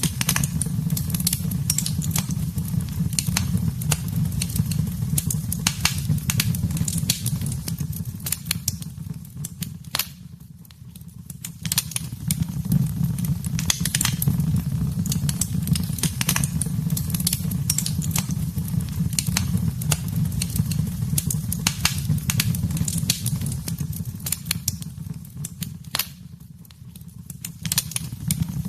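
Wood fire crackling in a fireplace: dense irregular snaps and pops over a steady low rumble. The crackling thins out briefly twice, about a third of the way in and again near the end.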